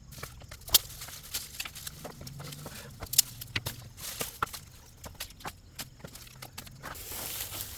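Dry wood snapping and crackling: irregular sharp cracks, two of them much louder about a second and three seconds in, with a hiss near the end.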